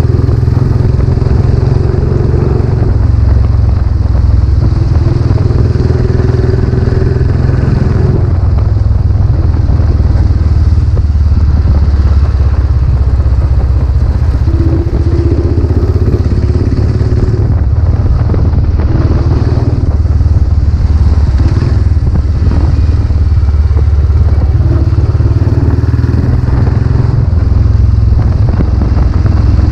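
Royal Enfield Classic 500's single-cylinder engine running through a newly fitted aftermarket silencer while the motorcycle is ridden, a loud, deep exhaust note that rises and falls with the throttle.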